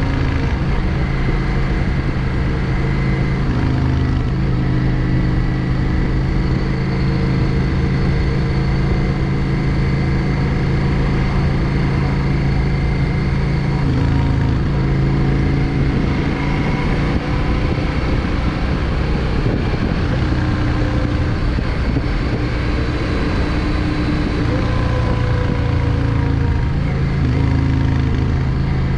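Yamaha XVS 650 Drag Star's air-cooled V-twin engine running steadily while under way. Its pitch shifts slightly a few times, about 4 s, 14 s and 27 s in.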